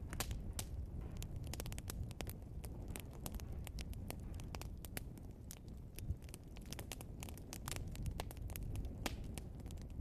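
Logs burning in a fireplace: dense crackling and popping, many sharp snaps in quick irregular succession over a low steady rumble of the flames.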